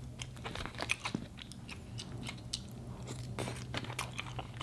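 Close-miked chewing of a mouthful of fast food: many small, irregular clicks and smacks from the mouth, with no rhythm.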